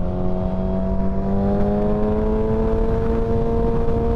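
Sport motorcycle engine pulling steadily in gear, its note rising slowly as it gains speed, over wind rush.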